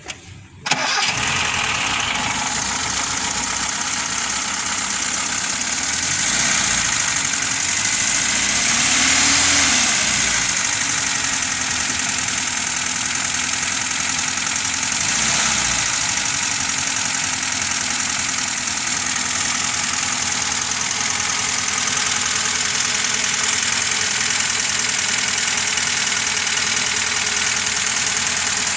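VAZ 21213 1.7-litre four-cylinder engine starting about a second in, then running. It is revved up and back down a few times in the first half, most clearly near the middle, then settles to a steady idle.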